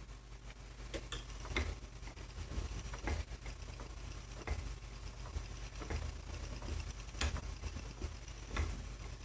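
Spinning wheel in use, with irregular sharp clicks and soft low knocks roughly once a second over a steady low hum.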